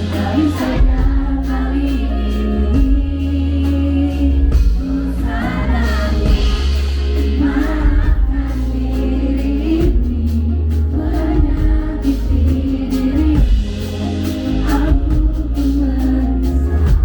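A song being sung over band accompaniment: a sung melody over steady bass and a regular drum beat.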